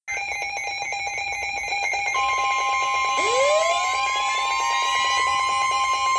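Electronic weather-radio alert: a buzzy, rapidly pulsing tone pattern for about two seconds, then a steady high alarm tone in the manner of the NOAA Weather Radio warning alarm tone, joined about a second later by tones sweeping upward to settle into it. It signals that a warning broadcast is about to follow.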